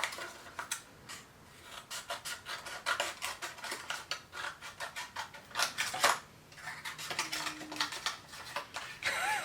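Scissors snipping cardstock, with the paper being handled: a run of short, irregular clicks and snips as a folded paper wing is trimmed thinner.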